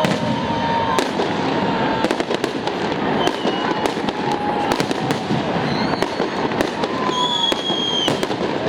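Fireworks salute going off: a steady, dense crackle of bursting shells with many sharp pops throughout.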